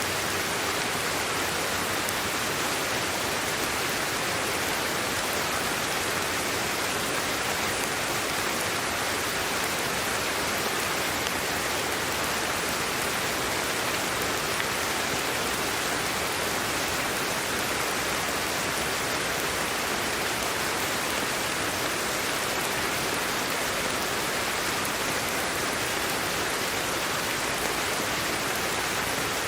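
Sleep-aid white noise: an even, unchanging hiss that holds at one level throughout.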